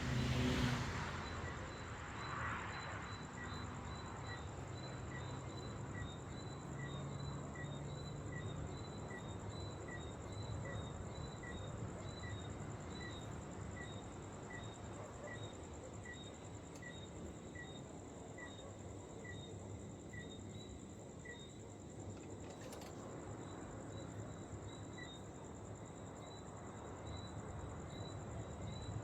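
A chirping insect calling in an even series of short high chirps, about one and a half a second, over a faint steady high whine and low outdoor rumble. A brief loud rush sounds in the first second.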